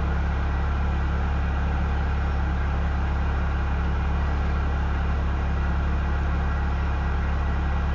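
Vehicle engine idling with a steady, unchanging low hum.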